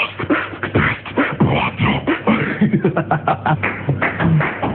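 Beatboxing: a person making rapid percussive mouth sounds, clicks, kick-like thumps and snare-like hisses, with a few short hummed low notes.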